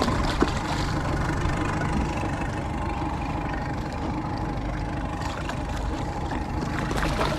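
Outboard motor idling steadily, with a few faint clicks.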